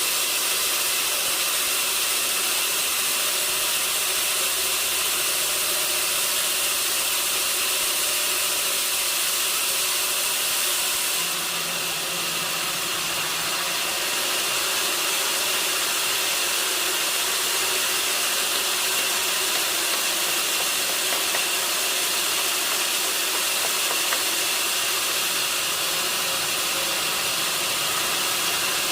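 Sawmill machinery running steadily, a constant hissing mechanical noise that shifts slightly about eleven seconds in.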